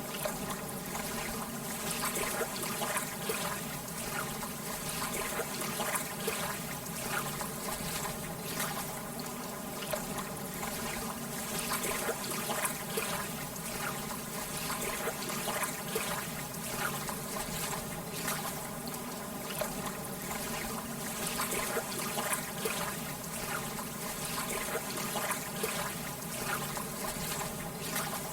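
Gentle lake water lapping and trickling: a steady wash of many small, irregular splashes.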